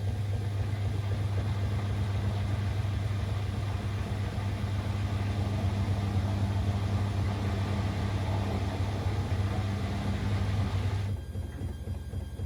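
Siemens Extraklasse XLS 140 A washing machine running mid-cycle on a 90 °C boil wash, with a steady low hum and a rushing noise over it that cut off sharply about 11 seconds in.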